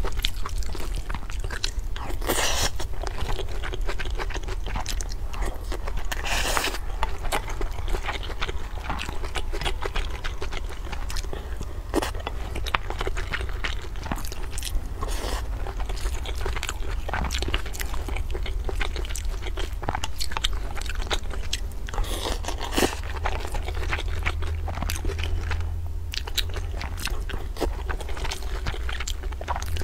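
Close-miked eating: chewing and biting, with many small crunching, smacking clicks. A wooden spoon scrapes in a ceramic bowl, and a few longer, noisier mouthfuls come through.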